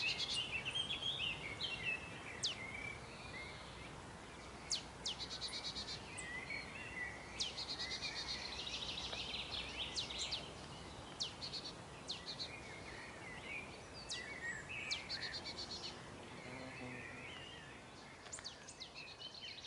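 Several songbirds singing and calling, with short sharp chirps and fast rattling trills scattered throughout, over a steady low background rumble of outdoor noise.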